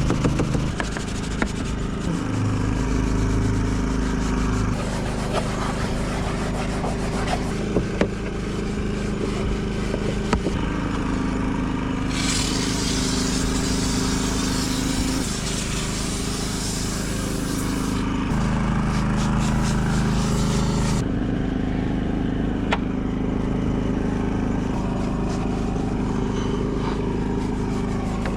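A steady machine motor hum that shifts pitch abruptly several times, with a stretch of loud hiss from about twelve to eighteen seconds in and a few scattered clicks.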